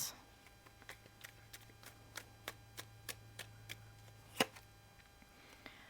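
Faint light clicks and taps, about three a second, with one louder tap about four and a half seconds in, over a faint low hum: tarot or oracle cards being handled.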